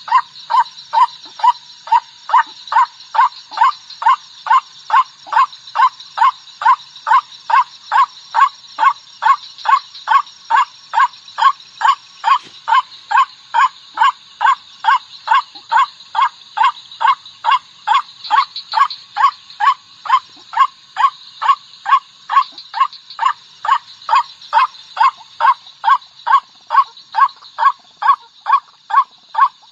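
White-breasted waterhen (ruak-ruak) calling: a lure recording of short calls repeated without a break, about two a second.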